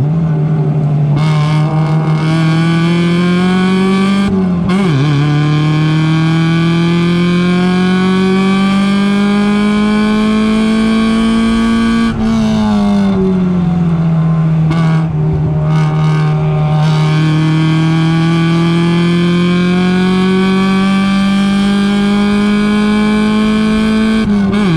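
Mazda Miata race car's four-cylinder engine heard from inside the car at high revs. Its pitch climbs steadily under full throttle and drops sharply at an upshift about four and a half seconds in, then climbs again for several seconds. Around halfway it eases off and falls for a few seconds, then climbs once more to another upshift at the very end.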